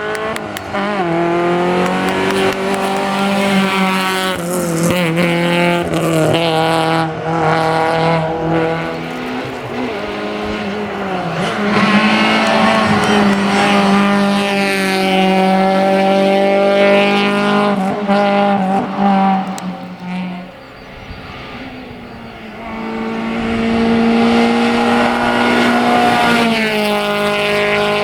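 Peugeot 205 Rallye hillclimb car driven flat out. The engine revs hard and its pitch climbs, then drops at each gear change. About two-thirds through it fades briefly, then comes back strongly as the car accelerates again.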